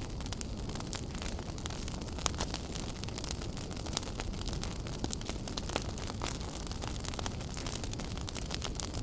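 Wood fire in a fireplace crackling, with frequent sharp pops and snaps over a steady low rumble of the flames. Louder pops come about two seconds in and again about four seconds in.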